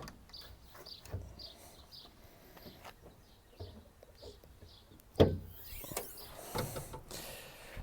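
A car door shutting with one loud thump about five seconds in, among quieter clicks and handling noises.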